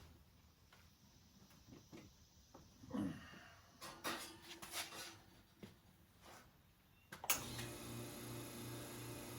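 Scattered clicks and knocks of a portafilter being handled and locked into the group of a Brasilia Portofino espresso machine. About seven seconds in, a sharp clunk and the machine's pump starts with a steady hum as the second shot begins to brew.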